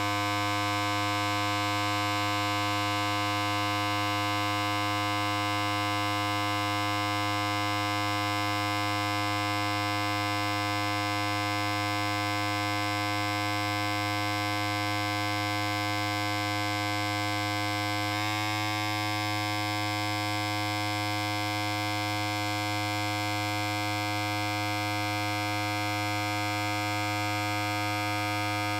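Electric hair clipper running continuously, a steady buzz with many overtones on a low hum. Its tone shifts slightly about 18 seconds in.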